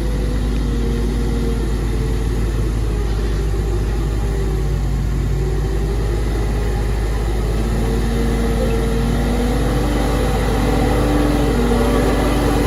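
Heavy diesel engine running steadily, its pitch drifting up and down a little, growing slightly louder near the end.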